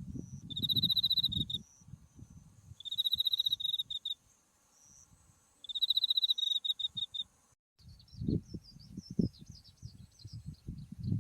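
A cricket singing: three trilled phrases, each about a second long and ending in a few separate chirps, over a steady high-pitched chorus of other autumn insects and light wind rumble. About two-thirds of the way through the sound cuts abruptly to a fainter mix of scattered insect chirps and low wind noise.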